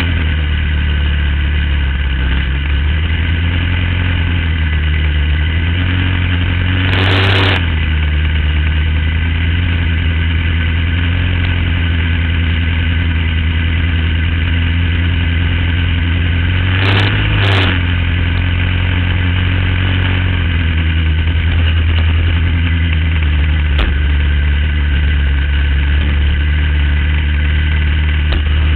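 Superbike engine idling steadily, with two brief rushes of noise and a slight rise in pitch about 7 and 17 seconds in.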